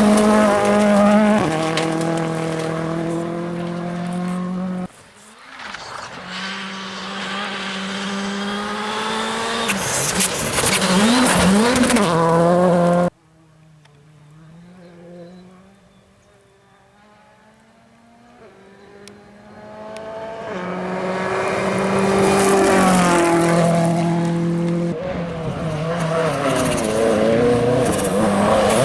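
WRC 2 rally cars at full throttle, engines revving up and dropping back through gear changes as they pass. The sound breaks off abruptly about five seconds in and again about thirteen seconds in. After a quieter stretch, another car's engine builds up as it approaches.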